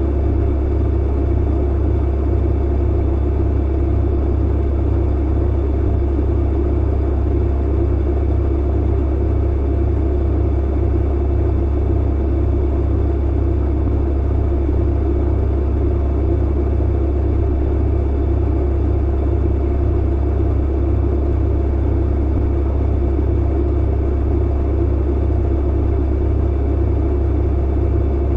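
Clothes dryer running, a steady low hum and rumble that goes on without a break.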